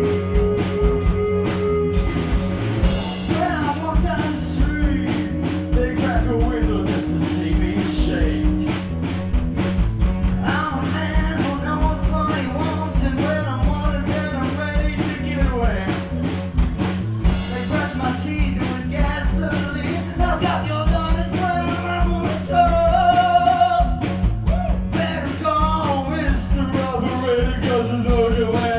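Gypsy rock band of drums, bass, guitar and accordion playing live, the drums keeping a steady fast beat, with a voice singing over it from about four seconds in.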